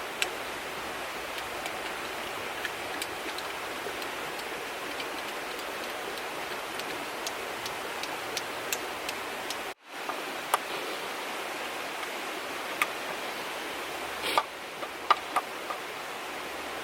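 Steady rushing of a river, with scattered light clicks and ticks over it. The sound breaks off abruptly for a moment about ten seconds in, then carries on.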